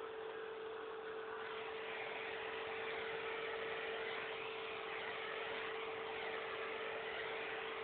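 Alpino vacuum cleaner running steadily: a constant motor hum over an airy hiss, the hiss wavering slightly from about a second and a half in.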